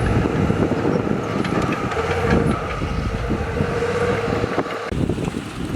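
Heavy diesel earthmoving machine running, with steady engine tones and rapid metallic clanking over them; the engine tone drops away about five seconds in.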